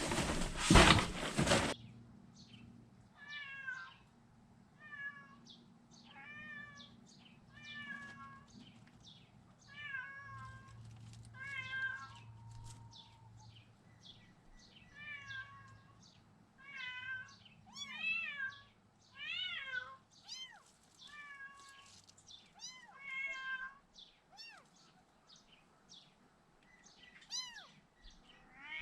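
Month-old kittens mewing over and over in short, high, thin calls, about one a second, crowding together in the middle stretch. A loud burst of noise comes in the first two seconds.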